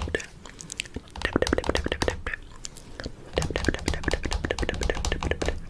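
Fingernails tapping rapidly on a camera, in quick runs of clicks with soft thuds underneath and short pauses between runs, mixed with close mouth sounds.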